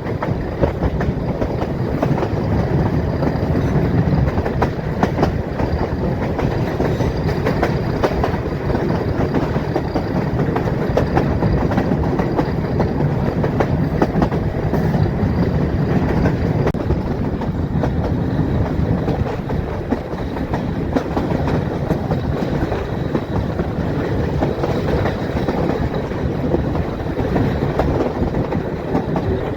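Metre-gauge passenger train running, with a steady rumble and the wheels clacking over the rail joints.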